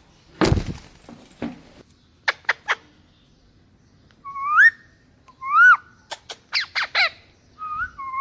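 Ringneck parrot calling: a harsh, noisy squawk about half a second in, three quick sharp chirps, then two loud whistles that rise and drop back, a rapid string of short sharp notes, and a warbling call near the end.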